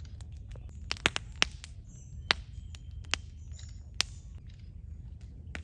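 Wood campfire crackling with irregular sharp pops, a quick cluster of loud ones about a second in.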